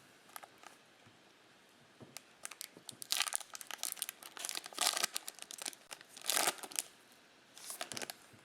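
Plastic trading-card pack wrapper being torn open and crinkled in bursts, loudest through the middle stretch.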